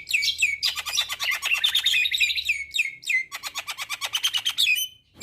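Javan myna (jalak kebo) singing. A few sharp calls come first, then two long runs of rapid chattering notes with a short break between them, and the song stops abruptly just before the end.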